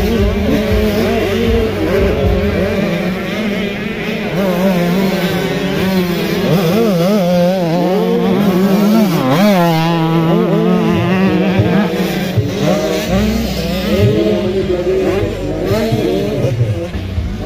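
Several motocross bikes running on the track, their engine pitch rising and falling as riders open and close the throttle, over a steady low tone.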